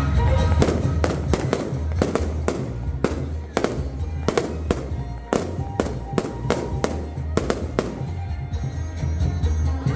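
Aerial fireworks bursting in a rapid, irregular run of sharp bangs, about two a second, with music and its steady bass underneath.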